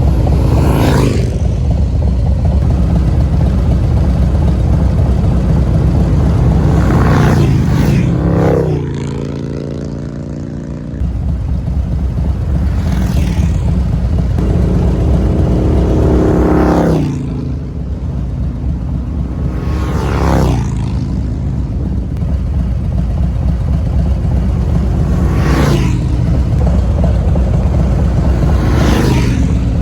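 Motorcycle running at road speed, a steady low engine rumble with wind, while other vehicles go by every few seconds, each passing swell rising and falling away.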